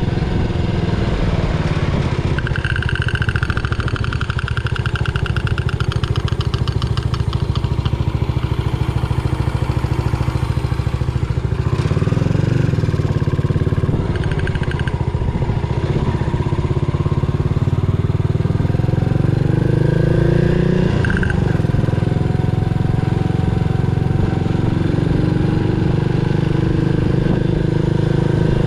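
Yamaha SR400's single-cylinder four-stroke engine running, its pitch rising and falling with engine speed. About two seconds in, a high whine joins it for several seconds.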